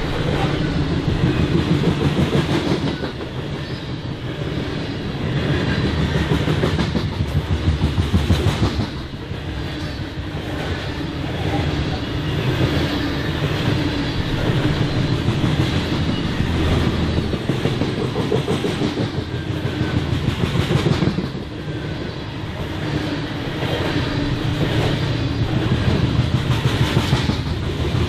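Freight train cars rolling past, with a steady rumble of steel wheels on rail and repeated clicking as the wheels cross rail joints. The loudness swells and dips every several seconds.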